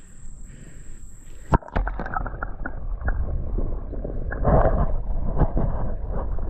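A sharp click about a second and a half in. After it come irregular sloshing and splashing in shallow creek water, as of someone wading, with wind rumbling on the microphone; the splashing is heaviest past the middle.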